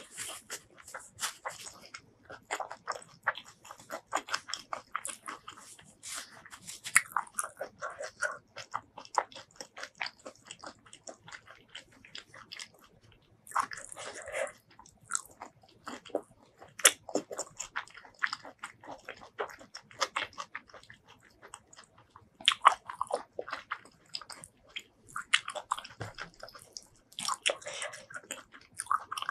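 Close-miked chewing and biting of a mouthful of rice mixed with spicy tomato fish paste curry and stink beans, with wet clicks and crunches in irregular spurts and a short pause about halfway through.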